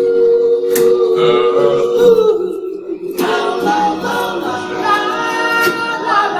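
A cappella soul vocal group singing in close harmony with no instruments: several voices hold one long chord, then move into a new chord about three seconds in.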